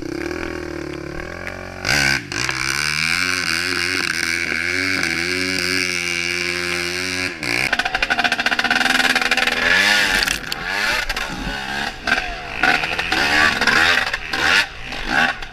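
Freshly rebuilt Honda CR250 two-stroke single-cylinder dirt bike engine running at a steady pitch for about seven seconds. It then changes abruptly into repeated rising and falling revs under hard throttle.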